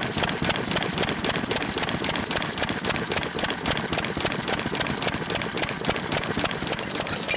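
Vintage Japanese stationary engines (hatsudoki) running at idle, with a rapid, even knocking beat.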